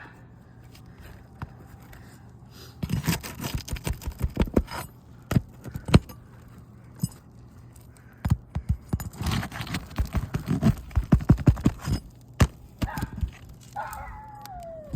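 Rapid runs of sharp knocks and scrapes from a metal prying tool working nails loose from under asphalt roof shingles. A brief falling squeak comes near the end.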